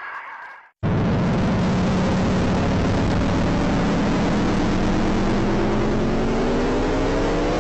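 Eerie 'space sound' recording: a loud, steady rushing noise with a low hum starts abruptly about a second in, and near the end a tone rises slowly in pitch.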